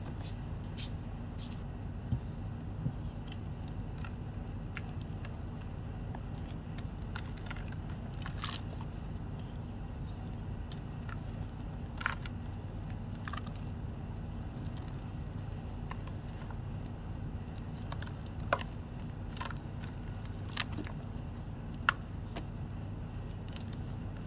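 White gym chalk crunching in occasional sharp, separate cracks, about nine across the stretch, over a steady low hum.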